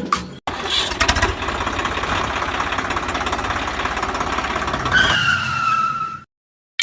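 An engine running steadily with rapid, even firing. A falling whistle-like tone joins it about five seconds in, and everything cuts off abruptly just after.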